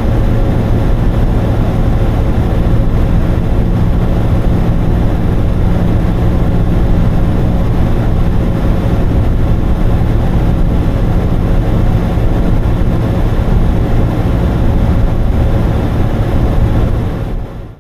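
A vehicle engine running steadily under way, with a low hum and a dense rushing noise, fading out near the end.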